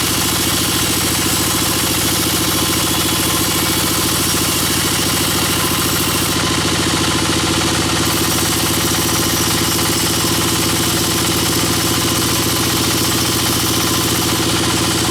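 Band sawmill running steadily: a constant machine drone under an even hiss, with no change in pitch or level.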